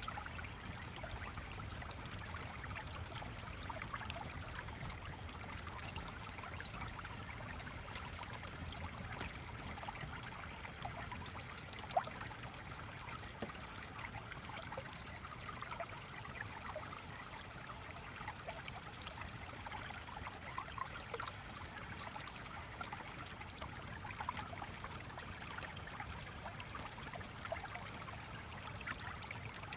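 Gently flowing stream, water trickling steadily, with a single sharp click about twelve seconds in.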